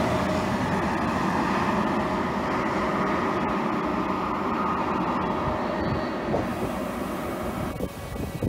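An Intercity train with an E414 electric locomotive rolling away from the platform, a steady rumble of wheels on rail that slowly fades. Near the end it cuts off abruptly to quieter wind noise with a few short clicks.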